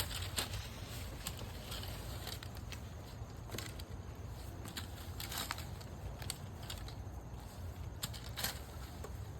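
Dry leaves rustling and crunching as they are handled, in scattered irregular crackles over a steady low rumble.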